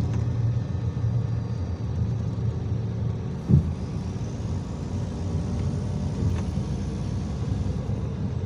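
IVECO Crossway 13M PRO city bus under way, a steady low rumble of engine and road, with one short low thump about three and a half seconds in.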